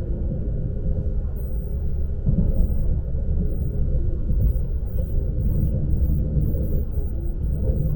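Lastochka electric train running, heard from inside the carriage: a steady low rumble of wheels and running gear on the track.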